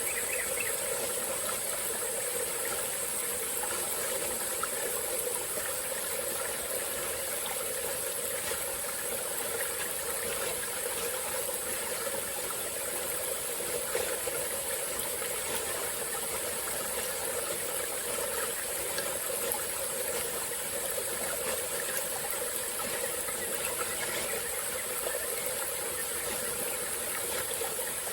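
Small tropical-forest stream flowing steadily over rocks, with a constant high-pitched insect drone behind the water.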